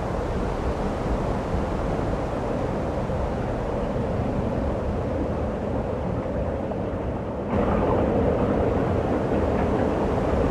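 Steady snowstorm wind noise, getting suddenly louder and brighter about seven and a half seconds in.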